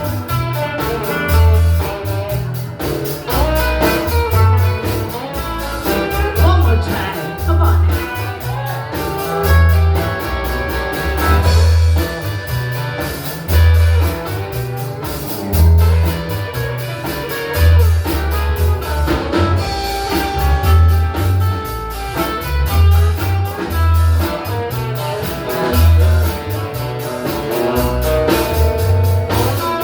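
Live blues band playing, a guitar over a steady bass and drum beat.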